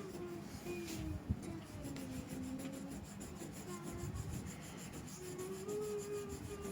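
Crayon rubbing and scratching on paper as a picture is coloured in, with a sharp knock on the table about a second in.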